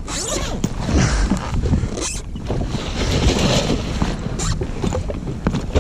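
Jet ski on open water: a low engine rumble under wind buffeting the microphone and water splashing, with several brief gusts or splashes.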